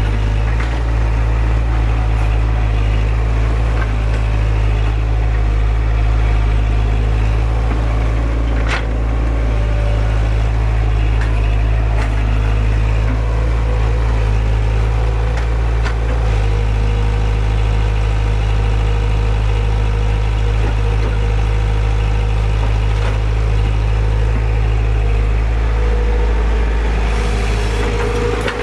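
Kobelco SK115SR excavator's diesel engine running steadily with a deep, even hum, with a few sharp knocks now and then.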